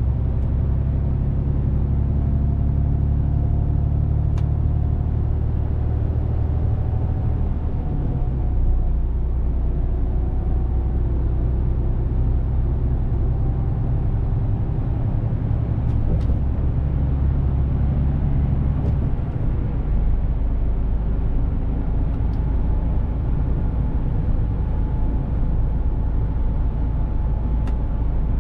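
Diesel engine of a Mercedes-Benz Actros truck running steadily under way, a low, even drone whose note shifts about 8 seconds in and again near 20 seconds in.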